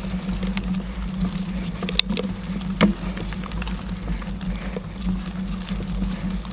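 Mountain bike riding along a dirt trail: steady rumble of tyres and wind, with a few sharp clacks about two and three seconds in.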